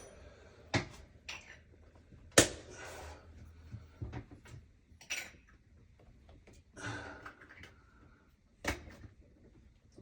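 Scattered clicks and knocks of tools and fittings being handled while a toilet is fitted, the loudest a sharp knock about two and a half seconds in.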